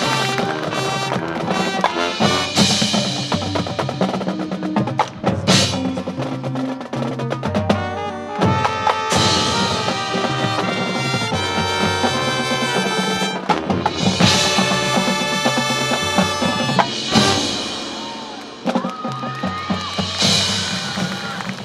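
High school marching band and its percussion section performing a competition field show: wind chords over drums, with sharp wood block and drum strikes throughout.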